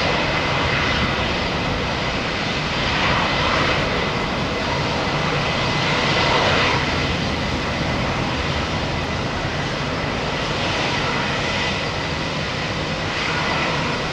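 Boeing 787 Dreamliner's jet engines, a steady loud rumble that swells and eases a few times as the airliner lands.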